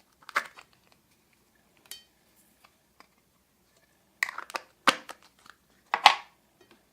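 Glossy slime with mixed-in items being squeezed and pressed by hand: short crackling, crunching squishes in a few separate bursts, a cluster about two-thirds in and the loudest near the end.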